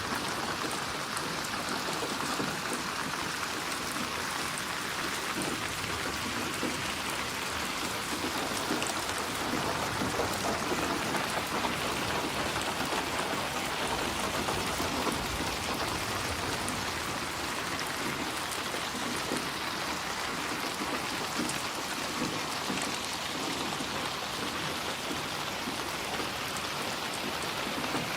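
Steady rain falling and pattering on a surface, with dense individual drop ticks and no letup.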